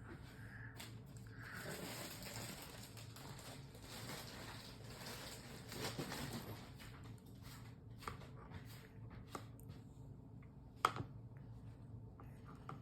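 Faint clicks and soft rustling handling sounds over a low room hum, with a sharper click about eleven seconds in.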